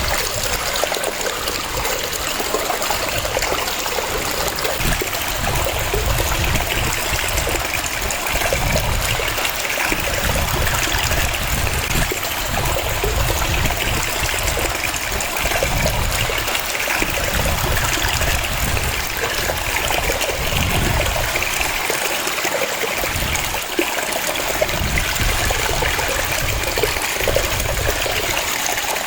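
Waterfall: a steady, dense rush of falling and splashing water, with a low rumble that swells and fades.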